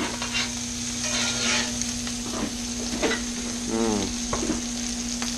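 Pork chops sizzling steadily in butter and olive oil in a hot cast-iron skillet, with a few light knocks and a steady low hum underneath.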